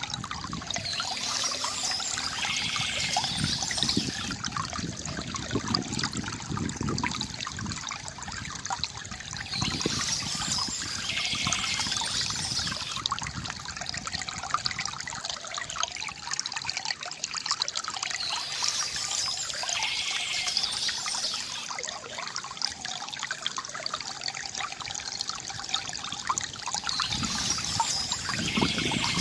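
Water trickling and gurgling steadily from a bamboo fountain, with short bursts of bird chirping that recur about every eight to nine seconds.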